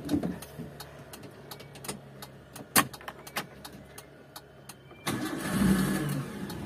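A few light clicks, then about five seconds in the 2001 Daihatsu Espass's 1.3-litre engine cranks and catches at once, running on steadily: an instant start.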